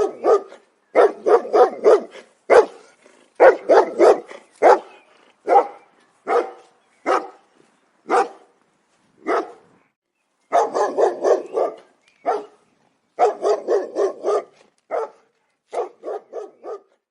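A dog barking over and over, in quick runs of barks broken by single barks about a second apart.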